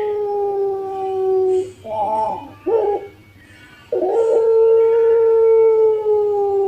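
Puter pelung dove cooing: a long drawn-out note slowly falling in pitch ends about two seconds in, followed by two short notes and then another long held note that also sinks slowly.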